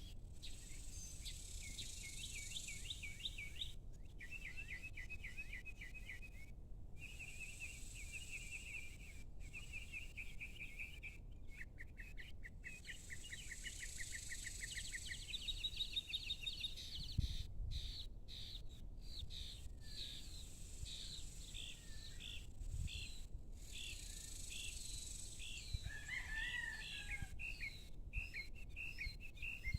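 Songbirds chirping and singing in rapid repeated trills and chirp series, several birds overlapping, over a steady faint high hiss and a low rumble of outdoor background noise.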